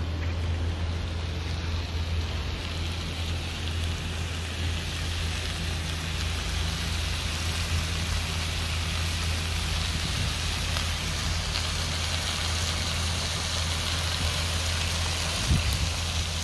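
Sago grubs and vegetables sizzling in a wok on a grill, a steady frying hiss over a constant low hum, with a brief knock near the end.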